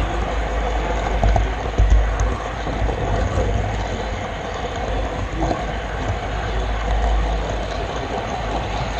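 Model train in motion heard from a GoPro Session riding on the camera car: steady rolling rumble and rattle of wheels on the track, with a brief louder knock about two seconds in.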